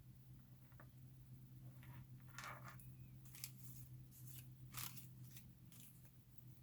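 Faint rustling and light taps of paper pieces being handled and shuffled on a craft table, a few short sharper clicks among them, over a steady low electrical hum.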